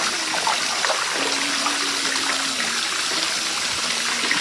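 Steady hiss of water in a bathtub, with a faint steady hum that starts about a second in and drops slightly in pitch.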